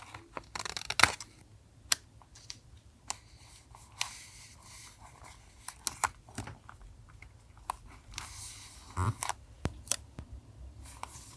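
Paper being handled for a journal collage: short bursts of crinkling and rustling with scattered small taps and clicks. The sharpest click comes about a second in.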